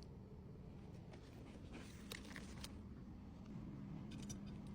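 Faint, sparse clicks and light rustles of small items and packaging being handled, over a faint steady low hum.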